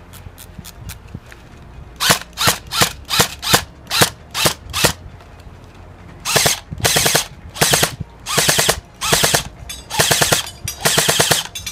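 Airsoft gun firing: a string of single semi-auto shots, about two or three a second, then a series of short full-auto bursts from about halfway through.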